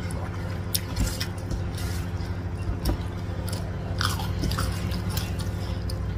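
Close-up chewing and wet mouth smacks of people eating soft fried flat rice noodles and rice by hand, with many short clicks over a steady low hum.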